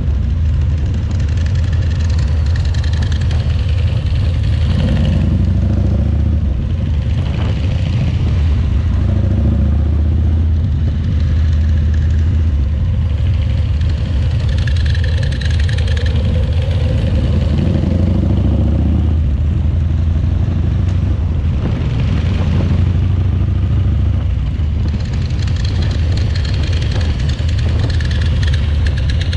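Harley-Davidson Shovelhead V-twin motorcycle engine running steadily with a loud, low, even drone.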